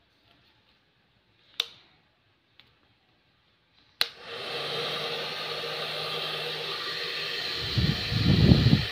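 CHAOBA hair dryer switched on with a click about four seconds in, then blowing steadily with a faint motor hum under the rush of air; near the end its air stream buffets the microphone in loud low rumbles. A single softer click comes earlier, about a second and a half in.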